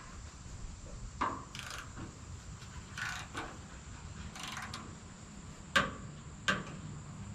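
Scattered sharp knocks and clanks with a few short scraping sounds over a low rumble, like mechanical parts and wood being handled; the two loudest knocks come near the end.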